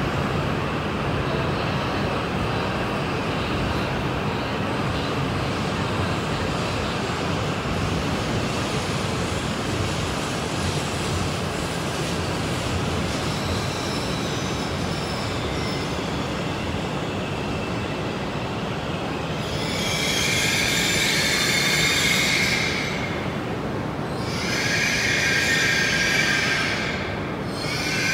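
E5 series Shinkansen train rolling slowly along the platform with a steady rumble. In the last eight seconds come three bursts of high-pitched squealing as it brakes toward a stop.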